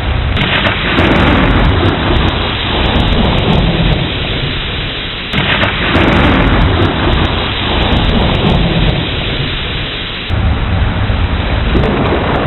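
Thunderstorm: steady heavy rain with two claps of thunder, about half a second in and about five seconds in, each rolling away over several seconds. The storm swells again near ten seconds.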